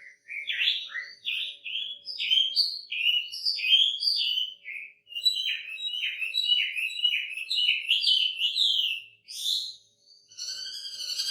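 Chinese hwamei singing: a fast, loud run of repeated slurred whistled notes. Near the end, after a short pause, it gives a steady held whistle.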